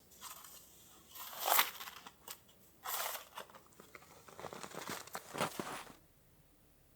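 A series of irregular crunching, crinkling noises, loudest about a second and a half in, dying away near the end.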